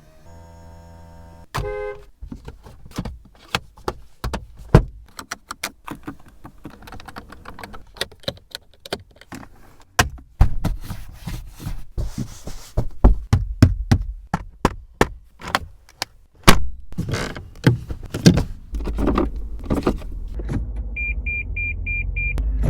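A Japanese-market car's controls and fittings being worked: a long run of sharp clicks and knocks, with a held tone at the start and a low steady rumble building in the last few seconds. Near the end, an electronic warning chime beeps five times in quick succession.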